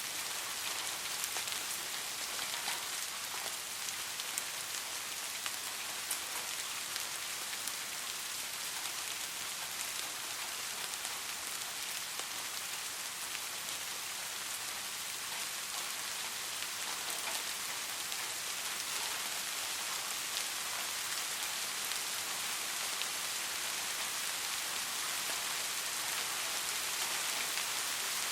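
Soft steady rain falling, a constant hiss dotted with small drop ticks.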